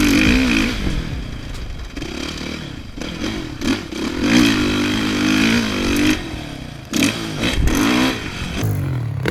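Dirt bike engine on a motocross track revving up and down again and again as the throttle opens and closes, with rattling and rushing noise.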